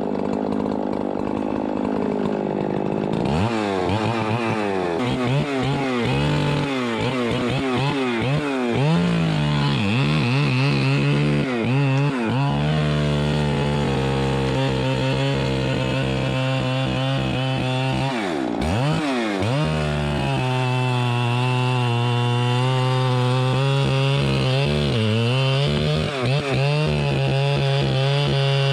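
Chainsaw running at low speed, then opening up sharply about three seconds in and cutting. Its engine speed sags and recovers several times as the chain bites into the wood.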